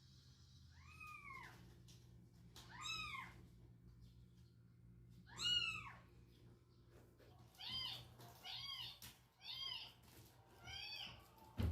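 Cat meowing: three drawn-out meows a couple of seconds apart, then a quick run of about six shorter meows.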